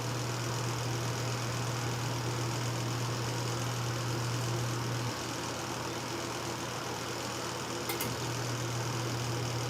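Motor of a ZENY mini twin-tub portable washing machine running with a steady low hum near the end of its timed cycle. The hum drops slightly about five seconds in, and a couple of faint clicks come near the end.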